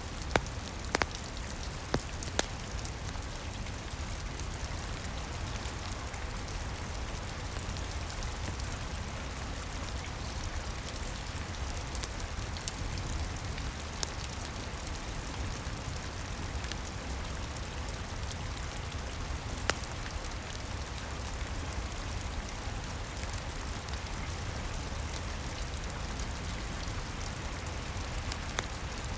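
Steady rain heard from inside an attic, with a low rumble underneath. A few sharp crackling pops from a wood fire in a fireplace stand out, several in the first seconds and a couple more later.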